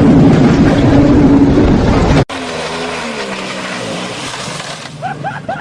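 Boat engine running under heavy wind noise on the microphone, cut off abruptly about two seconds in. A quieter engine follows, its pitch wavering and falling.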